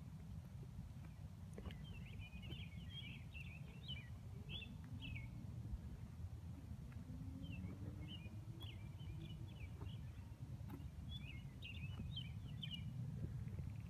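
A songbird singing in three spells of quick, twittering phrases over a steady low rumble.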